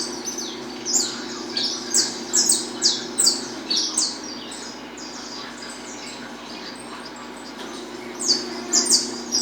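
Peruvian saffron finch (canário-da-terra) singing its snapping 'estalo' song: sharp, quick falling notes, two to three a second. It pauses from about four seconds in and starts again near the end.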